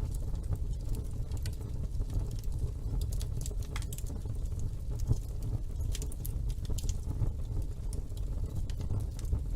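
Wood fire burning in a fireplace: a steady low rumble of flames under frequent sharp crackles and pops, with one louder pop about five seconds in.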